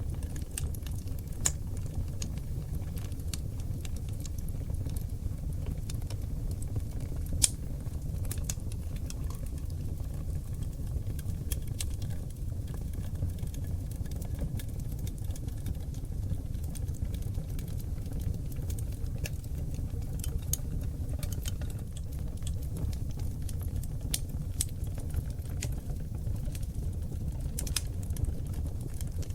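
Seasoned oak logs burning in a wood fireplace: a steady low rumble of the flames with irregular sharp crackles and pops. A louder pop comes about a second and a half in and another about seven and a half seconds in.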